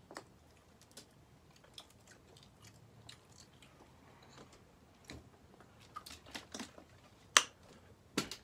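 Close-up chewing and small wet mouth clicks of someone eating pizza. Near the end come two sharp, louder clicks as a plastic water bottle is handled.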